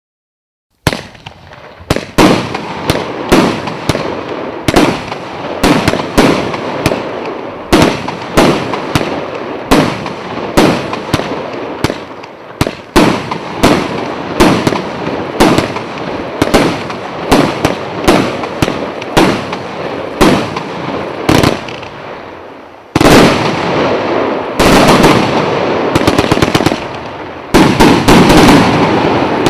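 A 74-shot consumer firework cake with 1 to 1.2 inch tubes firing shot after shot, starting about a second in, at roughly two shots a second. Near the end it shifts to rapid, dense volleys.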